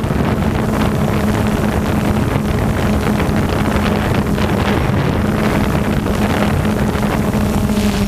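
DJI Phantom 2 quadcopter's motors and propellers humming steadily in flight, with wind buffeting the microphone.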